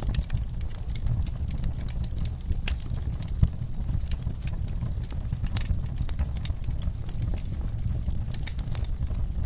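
Wood fire in a fireplace crackling: irregular sharp pops and snaps over a low steady rumble of the burning, with one louder pop about three and a half seconds in.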